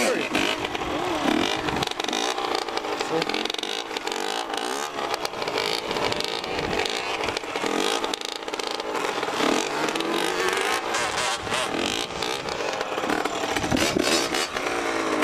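Dirt bike engine revved in throttle pumps and run up as the clutch is let out in first gear for a wheelie, its pitch rising and falling repeatedly as the throttle is feathered.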